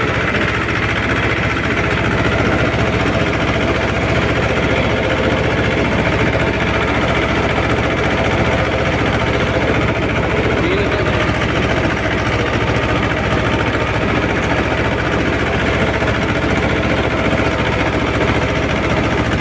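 Mahindra 24 HP mini tractor's diesel engine running steadily at an even speed, with a fast, regular firing beat.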